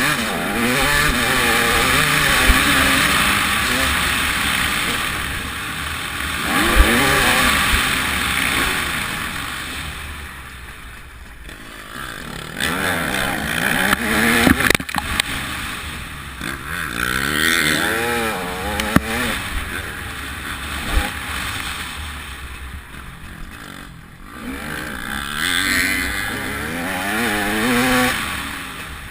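TM 300 two-stroke motocross bike engine revving hard and backing off again and again as the bike is ridden round the track, pitch sweeping up and down, easing right off twice. A dense rushing noise of wind on the onboard microphone runs under it, with a few sharp knocks.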